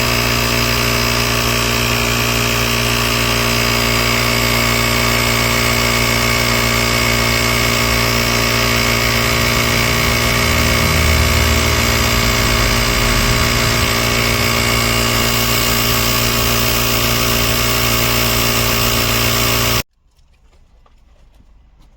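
Diesel engine idling steadily, then cutting off abruptly near the end.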